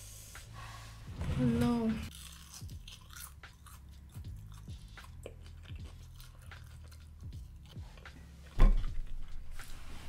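Close-up chewing of food, with many small wet mouth clicks and smacks. A loud thump comes near the end.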